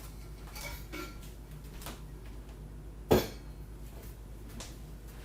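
Kitchen dishes and utensils being handled: a few light clinks, and one sharp, louder clatter about three seconds in.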